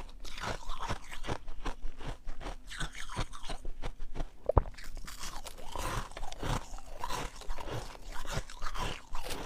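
Close-up crunching and chewing of freezer frost in the mouth: rapid, irregular crunches, with one sharp, loud snap about halfway through.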